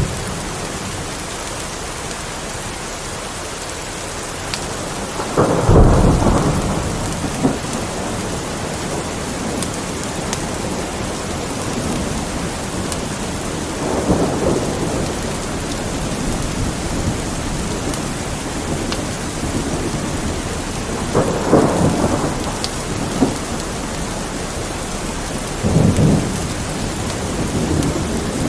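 Steady rain falling, with thunder rumbling four times: the loudest roll about six seconds in, then others near the middle, a little after and near the end. Faint crackles of a fireplace pop now and then over the rain.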